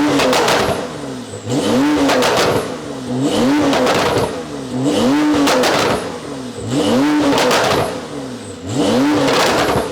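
Porsche 992 Turbo S twin-turbo flat-six with a titanium exhaust, repeatedly revved about six times, roughly once every second and a half. Each rev rises and falls back, with crackles from the exhaust near each peak.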